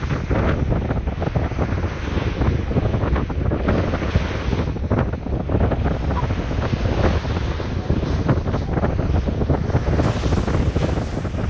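Wind buffeting the microphone: a loud, rough rumble that rises and falls in gusts.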